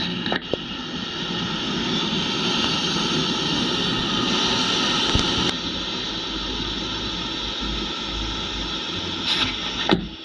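A vehicle's motor running steadily under a rushing hiss, with the sound changing abruptly a couple of times.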